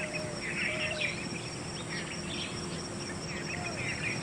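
Small songbirds chirping in quick clusters of high notes, with a few short lower whistled notes, over a steady background hiss and hum.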